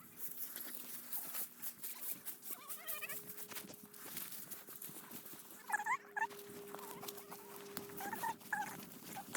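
A German shorthaired pointer whining in short, wavering high-pitched bursts a few times, over steady rustling of movement through tall grass.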